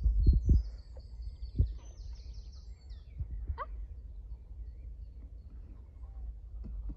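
Small birds chirping over a steady low rumble, with a few dull thumps in the first second and one more about one and a half seconds in.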